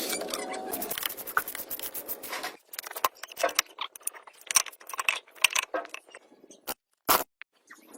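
Workshop handling of small metal parts: scraping for about two and a half seconds, then a string of sharp clicks and clinks, with one louder knock about seven seconds in.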